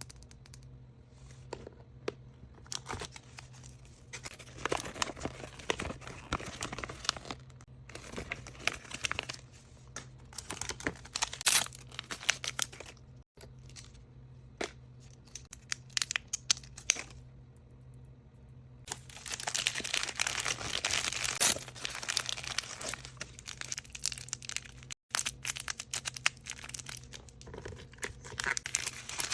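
Surprise-toy packaging being crinkled and torn open by hand: irregular rustling and tearing with many sharp crackles, densest about two-thirds of the way through. A faint steady low hum runs underneath.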